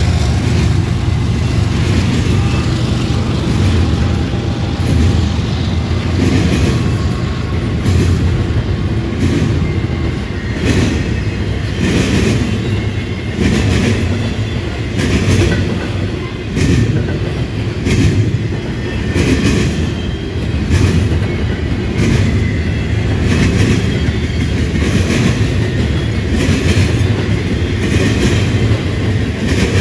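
Freight train of intermodal cars rolling past, a steady low rumble with the wheels clicking and clacking over the rails, roughly one to two clicks a second.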